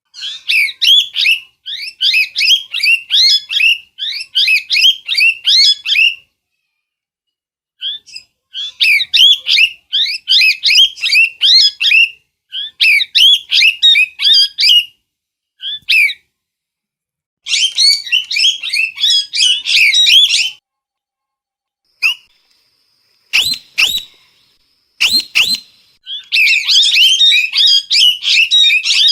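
A parrot calling in rapid runs of high, chirping whistles, bout after bout of a few seconds with short pauses between. Two sharp knocks fall in a pause about three quarters of the way through.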